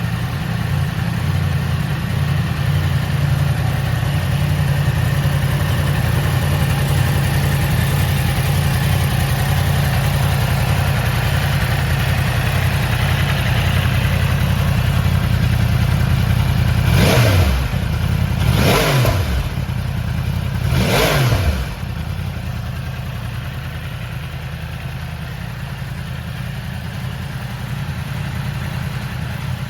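Yamaha YZF-R1 inline-four engine idling steadily. About two-thirds of the way through it is blipped three times in quick succession, each rev rising sharply and dropping straight back, then it settles back to idle.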